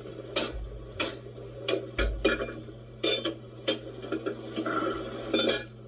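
Irregular metallic knocks and clanks, about a dozen of them, from hammering and tire-tool work on an old manual tire changer while trying to break a tire's bead loose.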